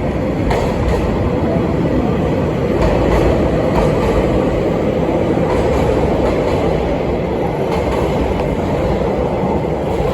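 JR Hokkaido 735 series electric train running on the line: a steady rumble of wheels on rail, with a few faint clicks from the rail joints.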